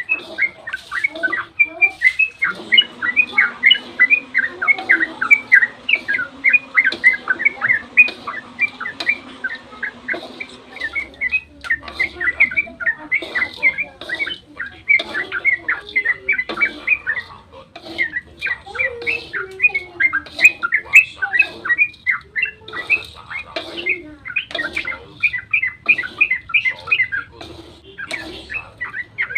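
Yellow-vented bulbul (trucukan) singing a long 'ropel' song: rapid, continuous runs of quick bubbling, chattering notes, several a second, with no real pause.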